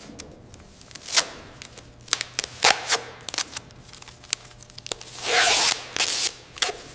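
Workshop handling noises: a scattered run of sharp clicks and taps, with a short hissing scrape lasting about a second near the end.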